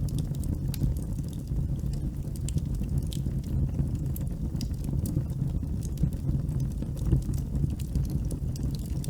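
Wood campfire burning, with frequent sharp crackles and pops scattered over a low steady rumble.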